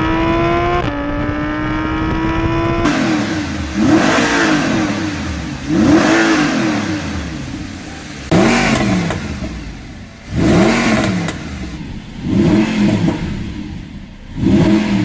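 Audi R8 engine revving on a stock exhaust. First a steadily rising rev for about three seconds, then six sharp throttle blips, each rising and falling in pitch, with pops and crackles as the revs drop. The crackle comes from engine software tuned for overrun pops and crackles.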